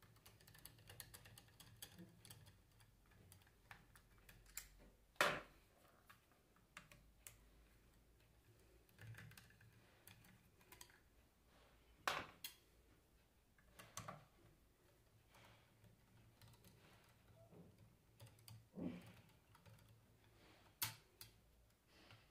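Faint, scattered clicks and light metallic taps of hand tools and small parts being handled while a Bosch alternator is taken apart, with a few sharper knocks about five, twelve, fourteen, nineteen and twenty-one seconds in.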